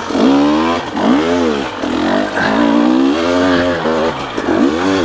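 Dirt bike engine revving up and falling back again and again under the throttle as the bike is ridden, the pitch rising and dropping about once a second.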